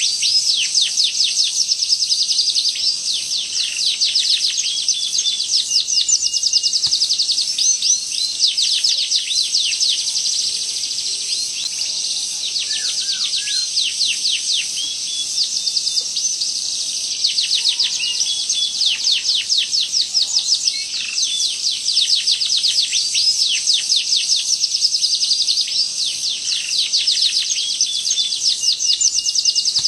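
Domestic canary singing long, rapid rolls: fast runs of quick repeated downward-sweeping high notes, in phrases broken by brief pauses.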